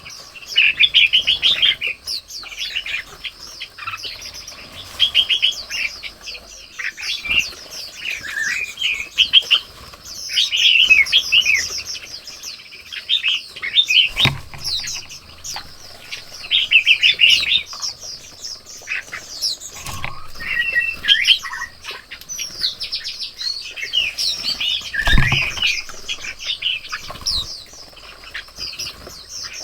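Red-whiskered bulbuls and other small birds chirping and calling in overlapping bursts, with two sudden low thumps, one about halfway through and one near the end.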